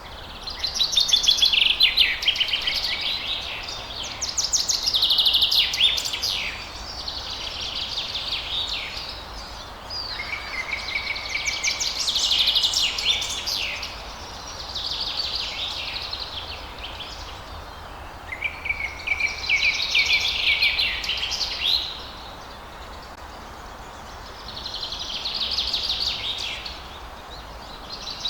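Songbirds singing at dawn: a run of long, varied song phrases lasting a few seconds each, separated by short pauses, over a steady faint hiss of background noise.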